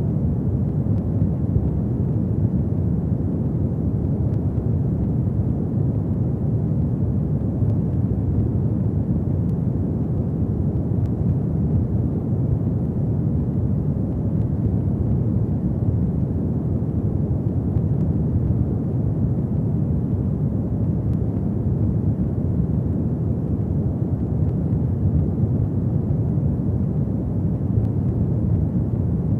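Fireplace fire burning, a steady low rumble of flames with no distinct crackles or pops standing out.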